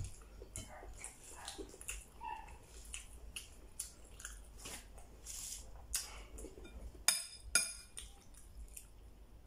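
Close-miked eating sounds: a man chewing and lip-smacking as he eats rice and fish with his hands, a steady run of small wet clicks and smacks. Two sharp dish clinks come about seven seconds in, half a second apart.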